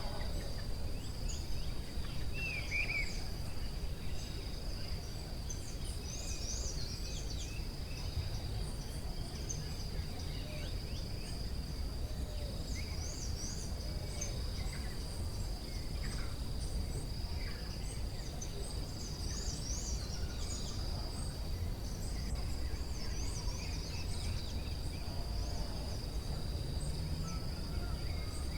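Forest ambience: a steady high-pitched drone of insects such as crickets, with many short bird chirps and trills scattered through it, over a low rumbling background noise.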